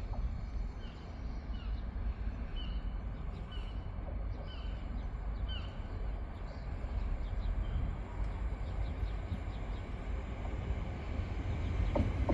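A small bird repeats a short falling chirp about once a second over a steady low rumble. Near the end a train's noise starts to build, with the first clicks of its wheels.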